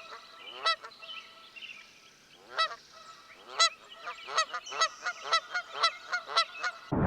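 Geese honking: a string of short, nasal calls, a few spaced out at first, then coming quickly, about two or three a second, in the second half, with faint higher bird twitter behind.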